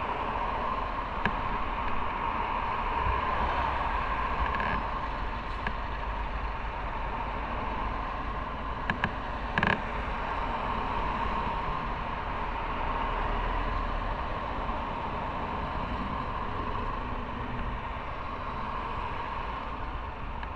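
Motorcycle on the move: steady engine, road and wind noise, with a few short clicks about nine and ten seconds in.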